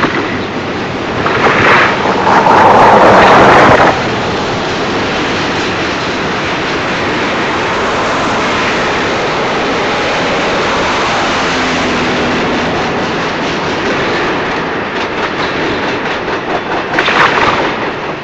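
Long double-stack freight train rolling past: a steady rush of steel wheels on rail, with sharp clicks of wheels over the rails near the end. About two seconds in, a louder rush of noise swells and cuts off suddenly about two seconds later.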